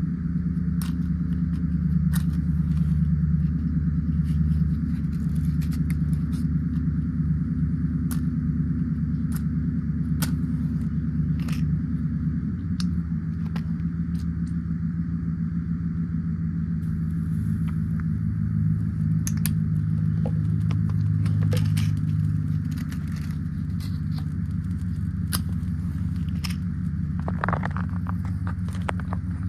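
Microwave oven running with a steady low hum, with scattered sharp crackles and pops from the number pad heating inside it.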